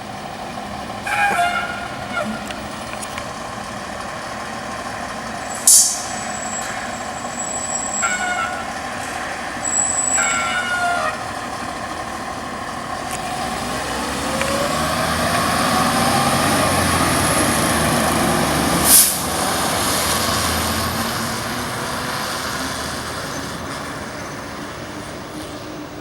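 Fire engine pulling out on a call: short air-horn blasts about a second in and again twice around eight to eleven seconds, sharp air-brake hisses, and the diesel engine rising in pitch as the truck pulls away.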